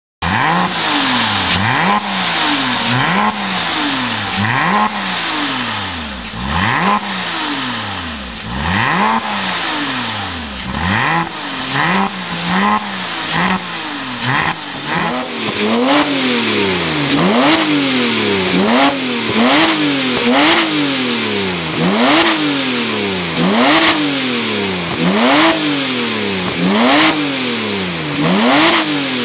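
Porsche Cayman engine through a Stebro sport exhaust, revved over and over, each rev climbing and dropping back. The revs are irregular at first, then from about halfway come in a steady series, roughly one every second and a half.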